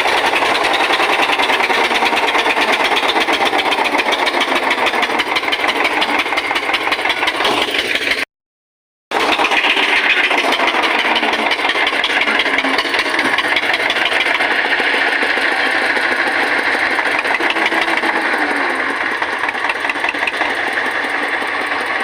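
Eicher tractor's diesel engine labouring under a heavy load, with a rapid, even knocking beat. The sound drops out completely for under a second about a third of the way in.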